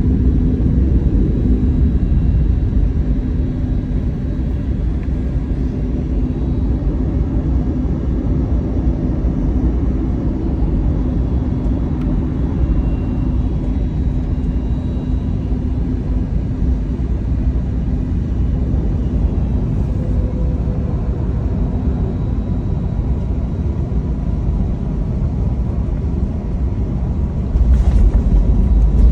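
Jet airliner on its landing approach: a steady low rumble of engines and airflow with a faint steady hum. It turns suddenly louder and fuller near the end.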